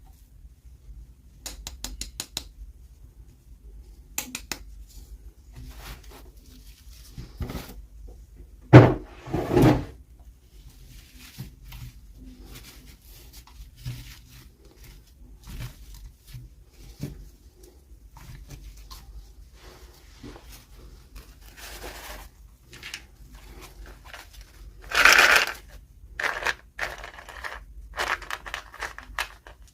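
Hands handling small plastic toy pieces and packaging during an unboxing: scattered clicks and taps, with two louder knocks about nine seconds in and a longer rustling burst near the end.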